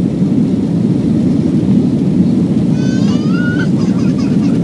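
Steady low roar of an Airbus A340-300 heard from inside the cabin, its four CFM56 engines and the airflow running evenly. A brief, rising voice cuts in about three seconds in.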